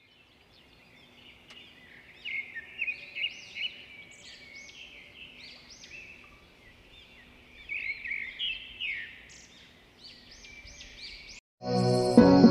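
Birds chirping and singing, a busy run of short, quick, arched notes that break off suddenly; music begins near the end.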